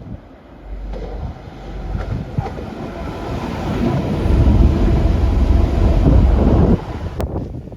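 A train passing close by, building to its loudest about four seconds in and then dropping away sharply near the end.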